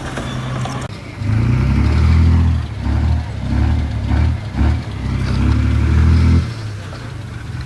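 Diesel engine of heavy earthmoving machinery idling, then revving hard in several surges for about five seconds, working under load, before settling back to idle near the end.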